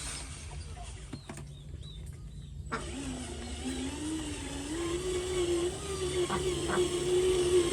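Small electric motor of an RC model truck whining, rising in pitch a third of the way in and then holding steady as it runs.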